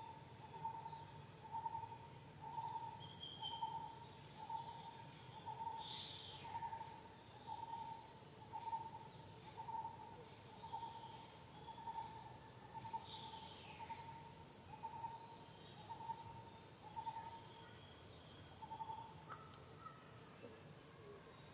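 Forest ambience with a bird repeating a single low hooting note over and over, about one note every three-quarters of a second, until it stops near the end. Faint high chirps from other birds and a couple of short high falling buzzes sound behind it.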